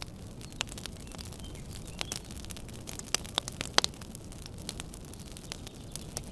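Wood fire burning in a fireplace: a steady low rumble of flames with irregular sharp crackles and pops, busiest and loudest a little past the middle.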